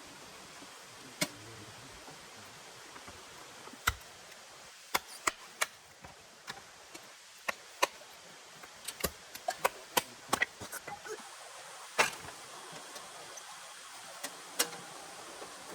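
A run of irregular sharp knocks and clicks, some single and some in quick clusters, over a steady soft hiss.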